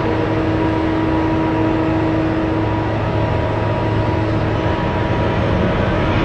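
Heavy vehicle running steadily: a low engine drone with a steady whine on top, unchanging throughout.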